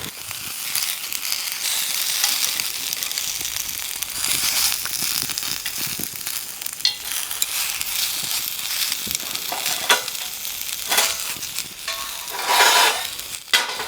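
Sausage and rice-cake skewers sizzling as they grill over a fire pit: a steady hiss broken by scattered crackles and pops, with a louder burst of sizzling near the end.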